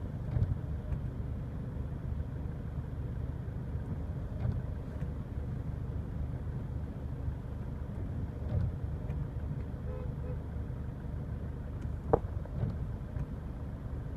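Steady low rumble of a car's engine heard from inside the cabin, with one sharp click about twelve seconds in.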